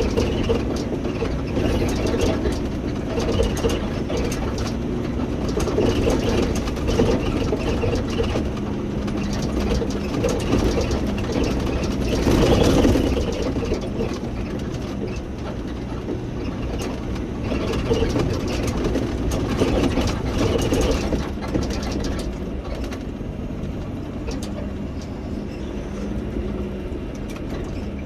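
Semi-truck running: a steady low engine rumble and hum, swelling louder for a moment about twelve seconds in.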